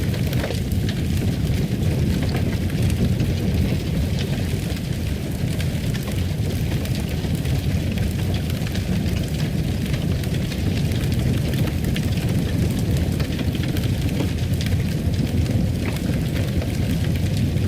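Fireplace burning: a steady low rumble of flames with scattered small crackles and pops.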